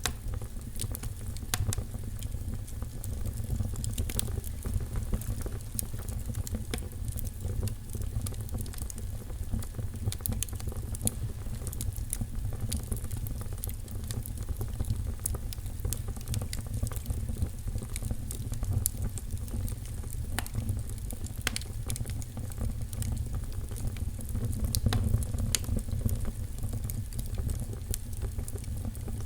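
Fire in a fireplace crackling, with many irregular pops and snaps over a steady low rumble.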